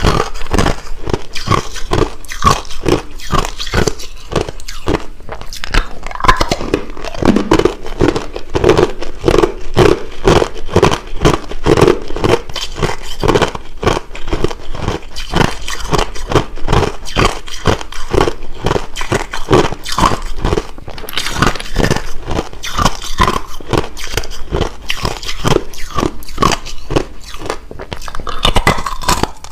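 Hard, clear crushed ice being bitten and chewed close to the microphone: a fast, continuous run of sharp crunches, about two to three a second.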